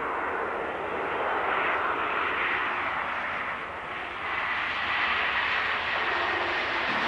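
Boeing 777 jet airliner's engines: a steady rushing jet noise with a faint high whine running through it.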